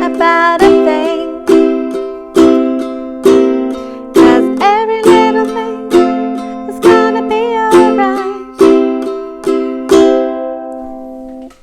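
Ukulele strummed in a down-strum reggae pattern, with the second and fourth strokes stronger and the first and third very soft. A voice sings over parts of it. The final chord rings out and fades near the end.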